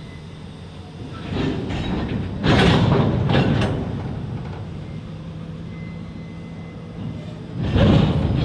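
Freight train rolling slowly: a diesel locomotive runs with a steady hum. Louder surges of rail-car and wheel noise come about a second in, for about a second around three seconds in, and near the end.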